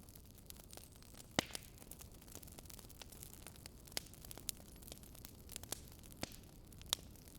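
Wood fire crackling faintly: irregular sharp pops and snaps, several a few seconds, over a low steady hiss. The loudest pop comes about a second and a half in.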